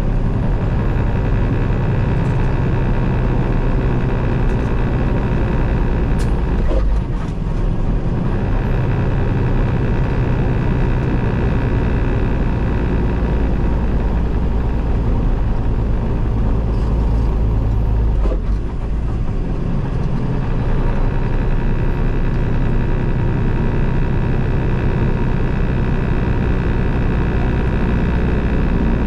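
A Peterbilt 389 semi truck's diesel engine droning steadily, heard inside the cab with road noise while driving at highway speed. The engine note dips briefly twice, about 7 and 18 seconds in.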